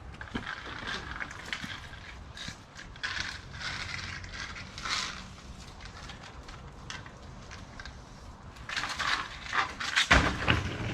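Irregular crunching and scraping of rocky soil being worked over buried drain pipe, louder and denser near the end, over a faint steady engine hum.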